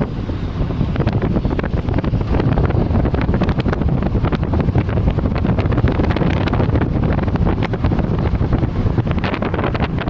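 Loud wind rushing over the microphone on top of a vehicle's low road rumble, with scattered crackles all through.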